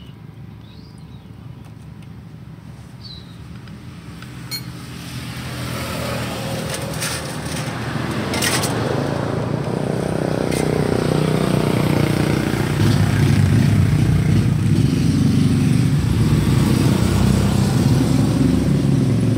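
Motorcycle engine running, growing steadily louder over the first dozen seconds and then holding steady at a loud, even run.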